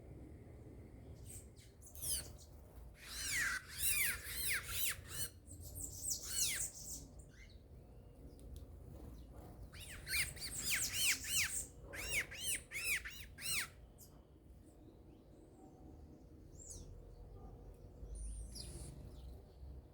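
Wild songbirds calling at a fruit feeder: two bouts of rapid, repeated high arched notes, each lasting a few seconds, with fainter scattered calls afterwards.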